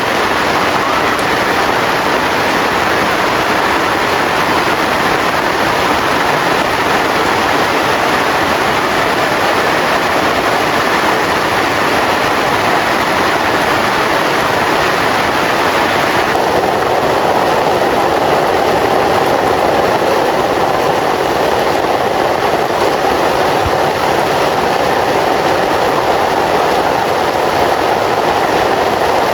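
Heavy rain falling steadily, a loud, even rushing hiss. About halfway through, the higher hiss drops away and a lower, duller rush remains.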